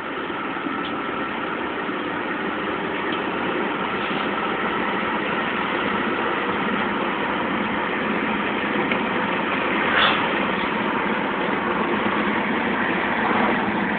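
Car engine and road noise heard from inside the cabin, steady and growing slightly louder over the first few seconds, with a brief knock about ten seconds in.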